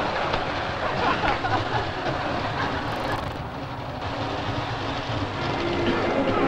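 Train running along the track: a steady, even rushing rattle.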